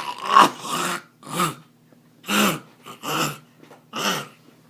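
A dog making a run of about five short, harsh vocal sounds, roughly one a second.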